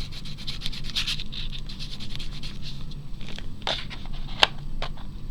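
Watercolour crayon scribbling on paper in quick back-and-forth strokes that die away about halfway through. Then a few sharp clicks and taps, like tools or crayons being picked up and set down.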